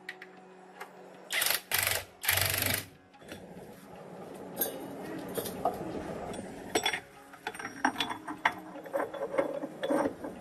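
Metal parts and hand tools clicking and clattering irregularly during work on a tractor gearbox, with two short, loud noisy bursts about two seconds in.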